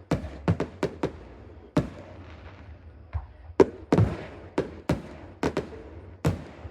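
Fireworks bursting overhead in an irregular string of about a dozen sharp bangs, each with a short echoing tail. The heaviest come about halfway through and near the end.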